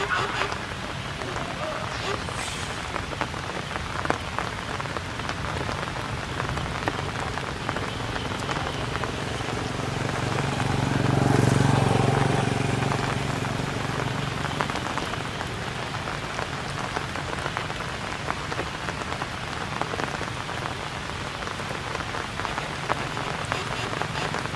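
Steady rain falling and pattering on surfaces, with fine drop ticks throughout. A low hum swells and fades away around the middle.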